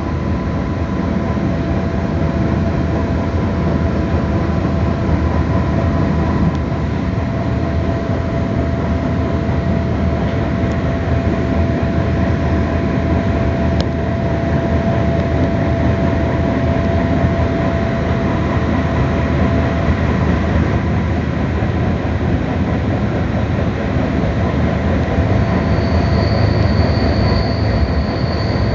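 Passenger train running, heard from inside the carriage: a steady rumble and rush of the wheels on the rails with a faint steady whine. Near the end a thin high-pitched squeal sets in.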